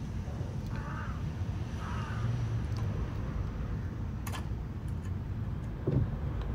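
Two short, harsh bird calls over a low, steady outdoor rumble, with a sharp click about four seconds in.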